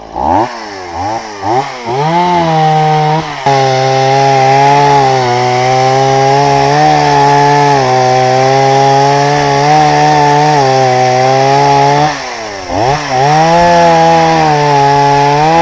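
Two-stroke chainsaw revved in a few quick blips, then held at high revs cutting into a jatobá log. About twelve seconds in it drops briefly toward idle and revs back up.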